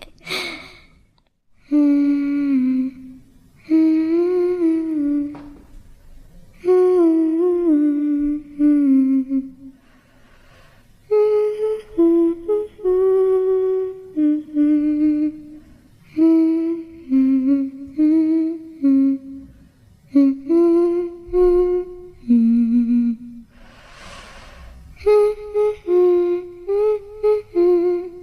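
A lone high voice humming a slow melody in short phrases with brief pauses between them.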